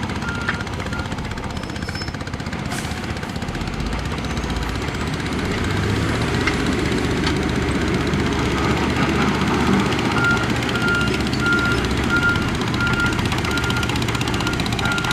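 Diesel engine of a heavy earthmoving machine running steadily under load. A backup alarm beeps about twice a second briefly at the start and again from about two-thirds of the way through.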